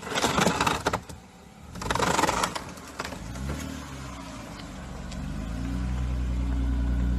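Two short noisy bursts, then a lowered BMW E36's engine running, its note wavering and then climbing steadily as the car pulls slowly away.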